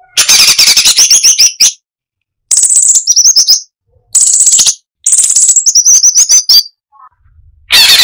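Cucak cungkok singing in loud, rapid-fire phrases of dense chattering notes, several ending in a fast, high rattling run, with brief pauses between phrases; a new phrase starts near the end.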